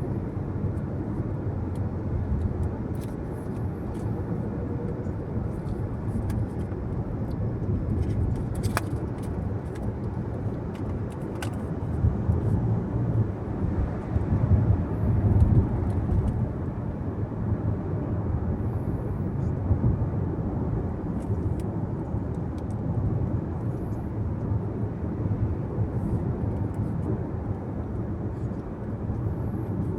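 Steady road and tyre noise of a car driving, a low rumble with engine hum, swelling louder for a few seconds near the middle.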